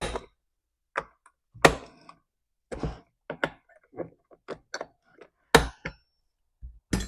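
Irregular knocks, taps and clacks of a chainsaw's plastic covers and hand tools being handled and set down on a workbench as the top cover and recoil starter housing are taken off. About fifteen separate strikes, two of them louder than the rest.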